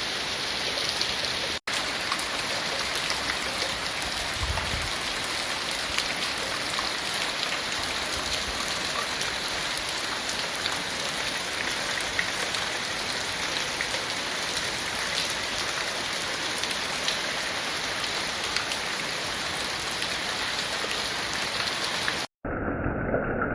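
Monsoon rain falling steadily, an even hiss of drops on surfaces. The sound drops out for an instant about a second and a half in, and near the end it cuts to a duller, muffled sound.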